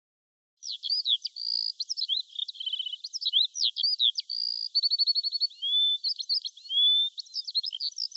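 A songbird singing a long, varied song of quick chirps, clear whistles, rapid trills and sweeping up-and-down notes, starting about half a second in and running on without a break.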